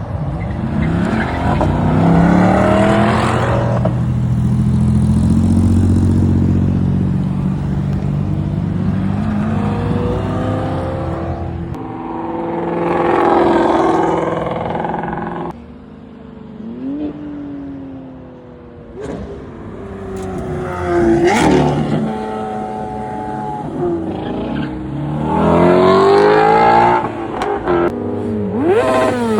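Car engines revving and accelerating hard, one after another, each climbing steeply in pitch then dropping off; a held, steady engine note in between and a quieter spell about halfway through.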